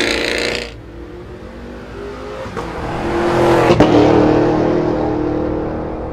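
The 2023 Cadillac Escalade V's supercharged 6.2-litre V8 accelerating hard. It cuts off abruptly under a second in, then swells again to a peak a little under four seconds in, with a sharp click at the loudest point, and slowly fades away.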